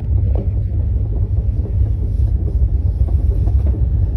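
Steady low rumble of a moving passenger train, heard from inside a sleeper coach.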